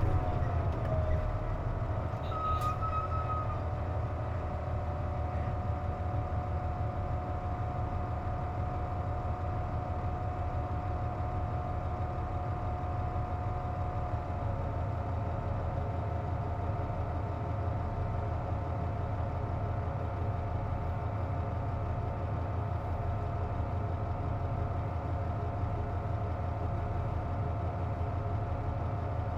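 Interior of a Nissan Diesel KC-JP250NTN route bus running with its air conditioning on. A steady low engine rumble is topped by a steady whine that drops in pitch in the first second and then holds. The uploader calls this an odd noise that comes with the air conditioning running. There is a short click a couple of seconds in.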